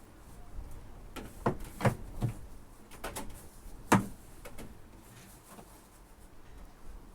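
A series of sharp knocks and clunks, two or three close together about one and a half to two seconds in and the loudest one about four seconds in.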